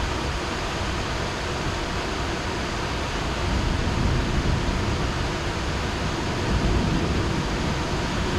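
Heavy rain falling as a steady hiss. A low rumble of distant thunder swells up about halfway through and again near the end.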